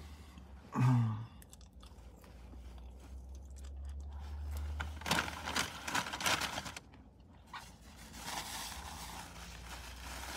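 Close-up eating sounds: chewing and crunchy bites of fast food, a few sharp crunches about five to six and a half seconds in, over a low steady hum.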